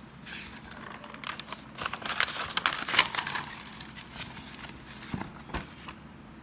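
Rustling and crinkling handling noise with many small clicks, densest in the first half, followed by two sharp clicks near the end.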